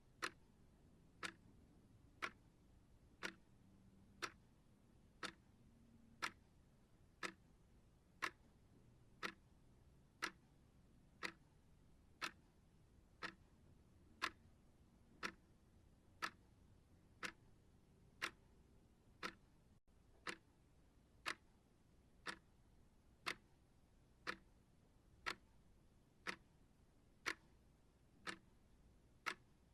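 Steady clock ticking, one short sharp tick about every second, evenly paced.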